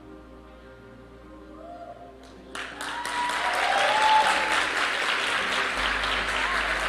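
Soft background music with held notes, then about two and a half seconds in a live audience breaks into loud applause that carries on over the music.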